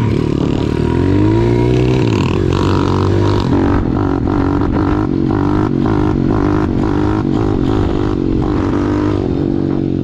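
Pit bike's small single-cylinder four-stroke engine running under the rider, revving up about a second in and then rising and falling as the throttle opens and closes. A regular flutter about three times a second runs through the middle part.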